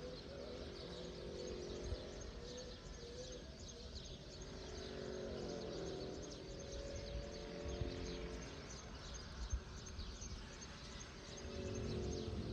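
Many small birds chirping and calling, a dense run of short quick notes, over a steady low rumble, with a few soft knocks in the second half.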